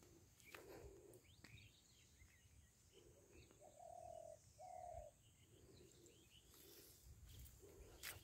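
Faint rural ambience with distant bird calls: scattered short chirps and two short low coos, about four and five seconds in. A few faint thumps and clicks near the end.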